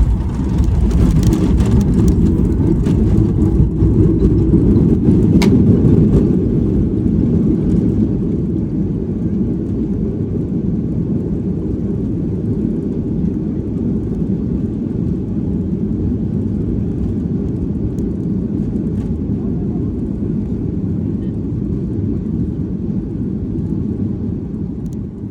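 Cabin noise of a Boeing 737-800 on its landing rollout. A loud rumble of the CFM56 engines in reverse thrust, with the wheels on the runway, runs for about the first six seconds, then eases to a steadier, quieter rumble as the aircraft slows.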